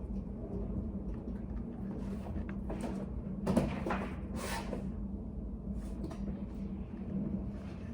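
Study-cafe room tone: a steady low hum with small scattered noises, and a sharp knock about three and a half seconds in, followed by about a second of sliding, scraping noise.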